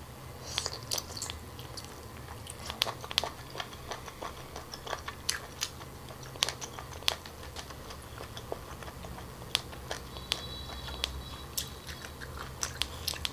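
Close-miked chewing of cooked octopus: irregular wet mouth clicks and smacks over a low steady hum. The octopus has turned chewy from being reheated in garlic butter.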